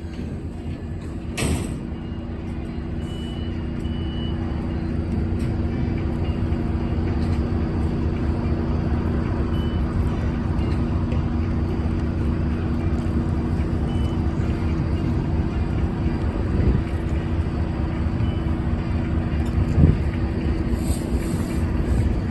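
Passing MARC passenger train slowing: the MP36 diesel locomotive's engine drones steadily over the rumble of the coaches rolling by. There is a sharp knock about a second and a half in, a few brief faint squeaks, and small thumps near the end.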